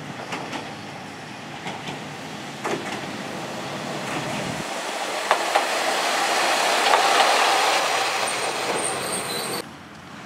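Diesel railcar passing close by on the track, wheels clicking over rail joints and points, the rumble swelling to its loudest about seven seconds in with a faint high wheel squeal near the end. The sound drops away suddenly about nine and a half seconds in.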